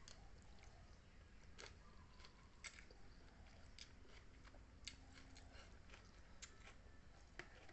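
Near silence with faint chewing and a few small scattered clicks of someone eating, over a low steady hum.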